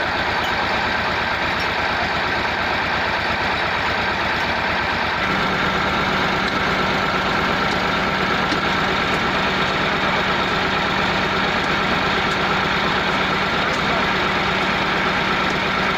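Massey Ferguson MF 260 tractor's three-cylinder diesel engine running steadily. About five seconds in the engine note changes and a steady low hum joins it.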